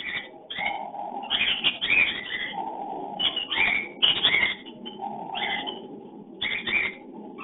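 Cockatiels calling during mating: clusters of short, high chirps about once a second, alternating with a lower, rougher chatter.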